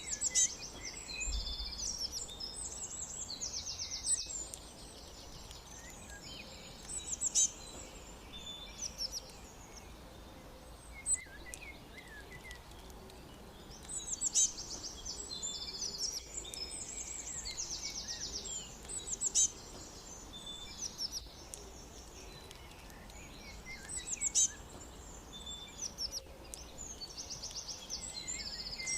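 Songbirds singing and chirping, high-pitched, with short trilled phrases repeating every few seconds over a faint steady background hiss.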